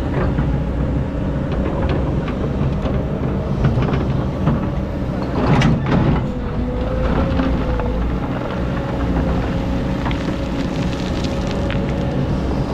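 Excavator engine running steadily with a thin, steady whine over the rumble, and scattered knocks, the loudest about five and a half seconds in.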